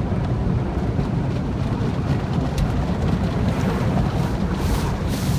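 Car wash running: a steady low rumble of machinery with the hiss of spraying water.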